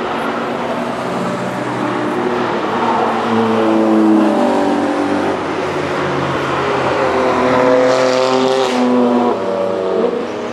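Car engine running hard on a race track, its pitch climbing and shifting as it revs. A brief rush of noise comes about eight seconds in.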